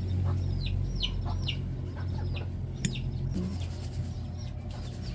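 Birds chirping: several short, high, falling calls, most of them in the first couple of seconds, over a steady low hum.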